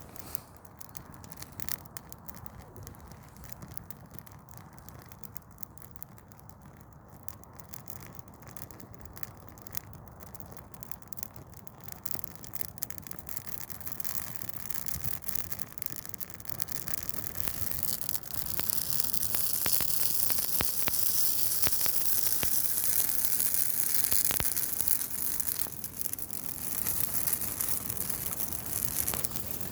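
Douglas fir Christmas tree burning, crackling and popping with many sharp snaps. A loud hiss builds up past the middle and eases off near the end.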